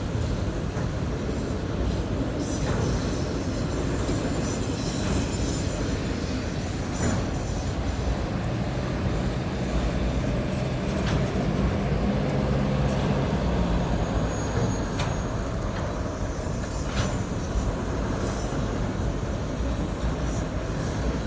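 Train rolling past: a steady low rumble of wheels on rail, with scattered short squeals and clanks.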